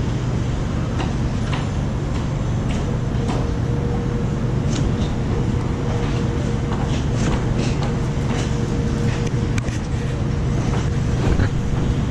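Construction machinery running with a steady low drone, with scattered light clanks and knocks from work on the deck.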